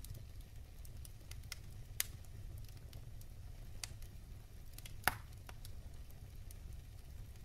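Wood fire crackling in a fireplace: irregular small pops and snaps of burning logs, a sharp one about two seconds in and the loudest about five seconds in, over a steady low rumble.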